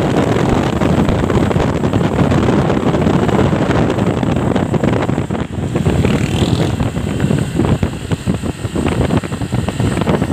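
Truck on the move, its engine and road noise heard under heavy wind buffeting the microphone.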